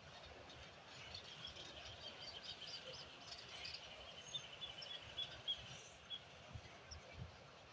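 A bird singing faintly: a long run of quick, high chirps over a quiet outdoor background.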